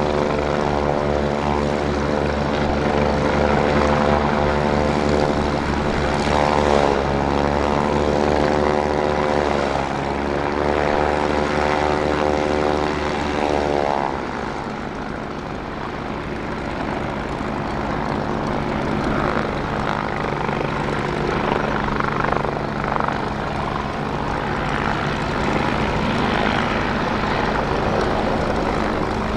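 Kawasaki BK117 C-1 helicopter in hover and takeoff, its four-bladed rotor and twin turboshaft engines running with a dense, buzzing stack of tones that dips and bends in pitch several times. About halfway through the sound changes abruptly to a rougher, less tonal rotor and engine noise.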